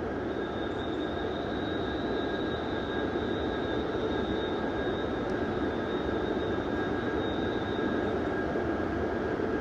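H5 series Shinkansen train pulling out of the station: a steady rumble that grows slightly louder, with a thin high tone that stops near the end.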